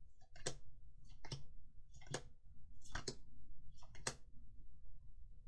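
Magic: The Gathering trading cards being flicked through by hand, a sharp click about once a second, five in all.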